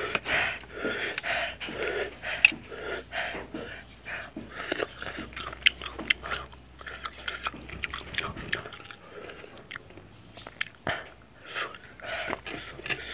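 Close-up chewing and biting of raw ginger with salt chili and lime: wet mouth sounds and irregular crisp crunches.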